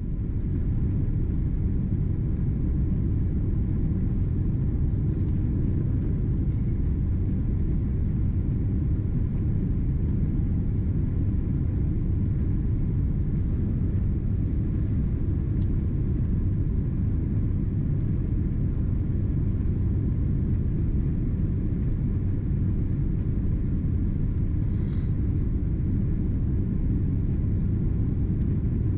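Steady low rumble of a Boeing 777-200ER's passenger cabin on final approach: engine and airflow noise.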